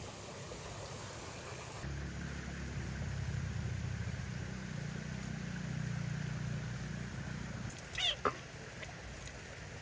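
A low rumble for several seconds, then two short, falling animal cries close together about eight seconds in.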